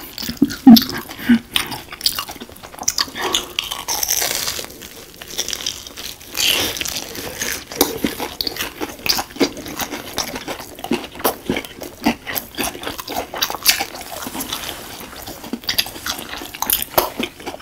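Close-miked chewing and crunching of crispy breaded, deep-fried Myungrang Korean hot dogs (corn dogs on sticks), with irregular crackles from the coating as two people eat.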